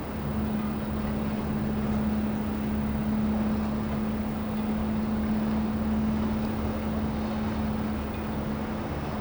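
Steady engine drone of a boat under way: a constant low hum with a held tone and an even rushing noise, unchanging throughout.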